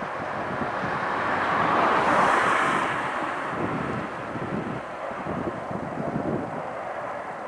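Jet engine noise of a Boeing 757-200 freighter passing, swelling to a peak about two seconds in and then slowly fading, with wind buffeting the microphone.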